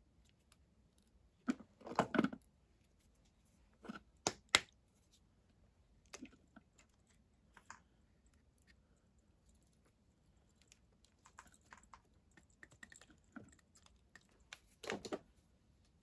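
Scattered clicks and knocks of small metal parts and tools being handled as a 50cc moped carburettor is taken apart and its throttle slide pulled out. The loudest knocks come about two seconds in, around four seconds in, and again near the end, with lighter ticking in between.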